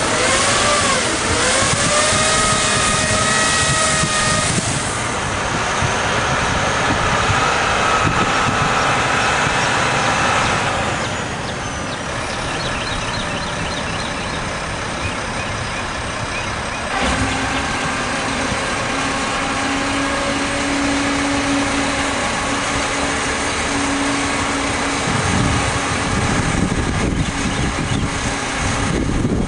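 Mack water truck's diesel engine running, its note rising and falling over the first few seconds, with a steady hiss underneath. About 17 seconds in the sound changes abruptly to a steadier run with a low hum.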